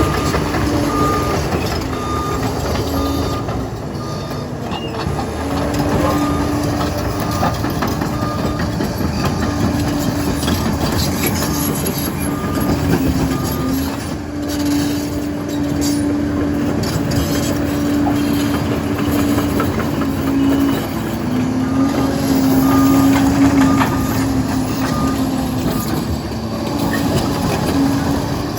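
Liebherr PR 746 crawler dozer working, its diesel engine running under changing load with its pitch shifting up and down, over track clatter. A reversing alarm beeps in evenly spaced pulses in several spells.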